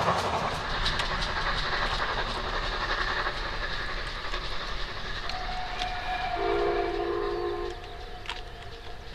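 Steam train running past, its noise and the clicking of the wheels fading away. A steam whistle sounds in the second half: a thin steady note from about five seconds in, and a louder, fuller blast lasting just over a second.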